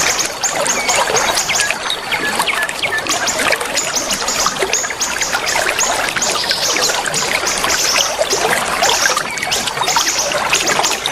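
Water trickling and splashing steadily, with many small birds chirping over it in quick, high, repeated notes.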